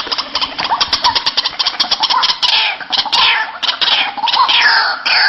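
White-breasted waterhens calling: a fast run of harsh clicking notes, then from about halfway on repeated falling croaks, two or three a second.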